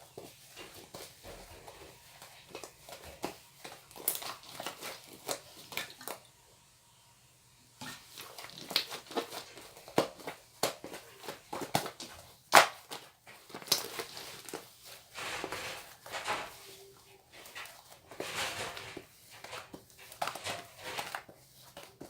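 Hands squeezing and stretching cloud slime, giving irregular sticky crackles and small pops, with a short quiet pause about six seconds in.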